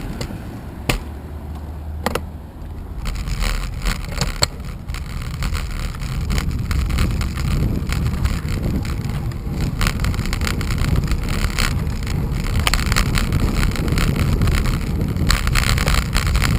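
Wind buffeting the microphone of a rider on a road bicycle, a steady low rumble that grows a little louder toward the end, with a few sharp clicks about one, two and four and a half seconds in.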